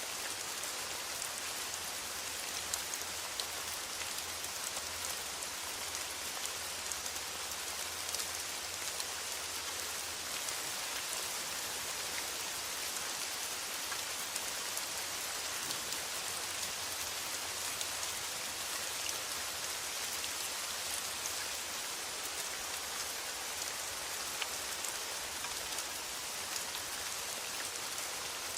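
Steady rain pattering on a metal roof: a dense, even hiss of many small drop ticks.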